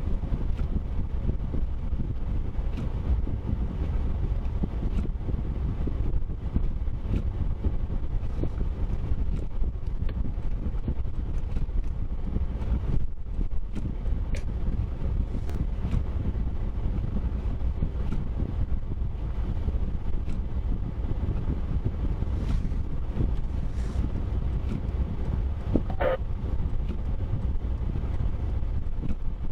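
A steady low rumble of a vehicle moving, with wind buffeting the microphone and a few faint clicks.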